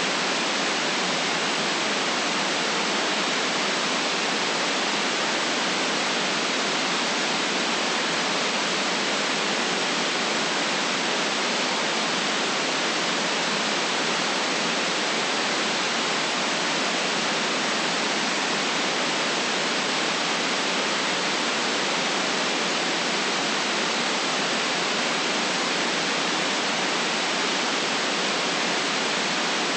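Steady white-noise hiss, even and unchanging in level, with no bass beneath it and no events in it.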